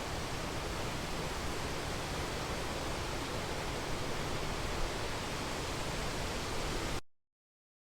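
The Rhine Falls' water thundering down in a steady, even rush, which cuts off abruptly about seven seconds in.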